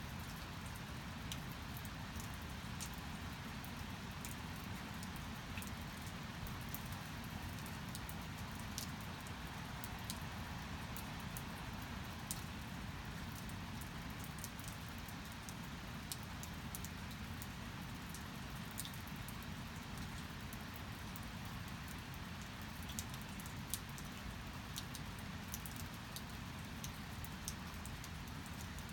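Steady rainfall, with many scattered sharp taps of single drops striking a surface.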